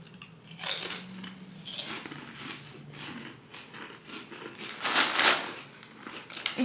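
A foil crisp bag of Ruffles being handled and opened, crinkling in two loud rustles, one about half a second in and one about five seconds in, with softer rustling between them.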